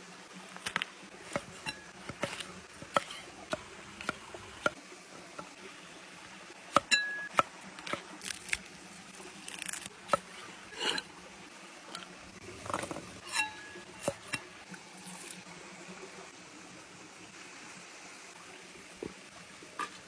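Scattered knocks and clinks of cooking utensils against dishes, about two dozen in all, two of them ringing briefly, over a steady low hiss; they thin out over the last few seconds.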